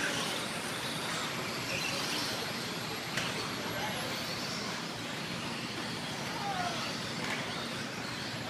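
Electric radio-controlled stock trucks racing around the track, their motors whining in short rising and falling glides over a steady wash of hall noise.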